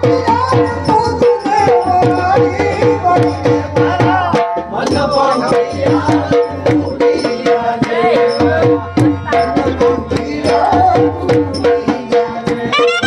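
Gujarati folk music: a dhol plays a fast, dense beat under a wavering melody over a held drone note. Near the end a sarnai comes in on a high, wavering note.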